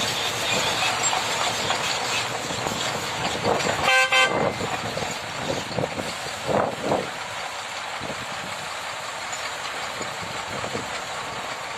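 A vehicle horn gives one short toot about four seconds in, over steady vehicle noise.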